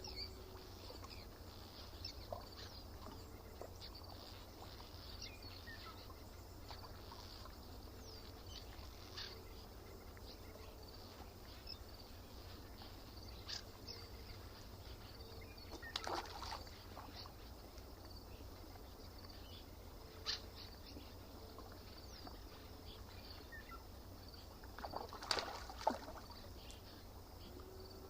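Quiet lakeside outdoor ambience: scattered bird calls and chirps over a steady low rumble, with a few louder short sounds about sixteen seconds in and again near the end.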